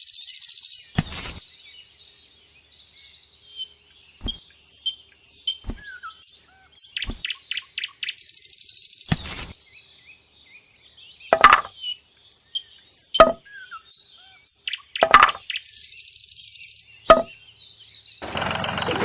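Small birds chirping and tweeting in quick, high calls, with sharp clicks or taps roughly every one to two seconds.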